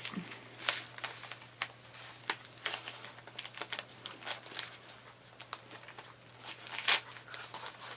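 Gift wrapping on small presents being handled and pulled open: irregular crinkling and crackling, with a sharper crackle about seven seconds in.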